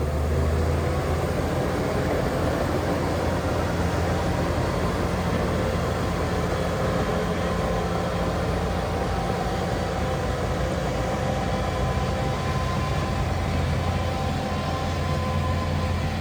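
Heavy diesel engine of earthmoving machinery running steadily: a constant low drone with thin, steady whining tones above it.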